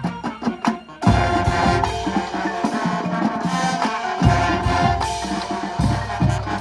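Marching show band playing: a quick run of sharp percussion strokes, then about a second in the full band comes in loud with sustained chords over repeated bass drum hits.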